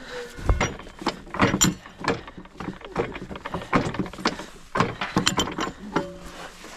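A run of irregular knocks and clinks, about a dozen sharp hits of hard objects, some ringing briefly.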